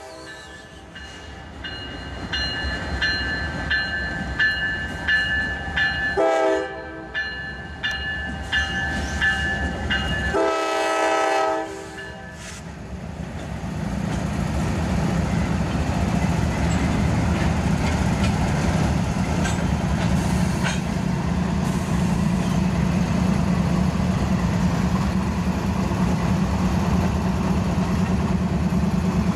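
Norfolk Southern freight train's diesel locomotive horn sounding a chord, a short blast about six seconds in and a long blast about ten seconds in, the close of a grade-crossing signal, over a bell ringing about twice a second. Then the locomotives' diesel engines pass with a steady low rumble, followed by the freight cars rolling by with clickety-clack.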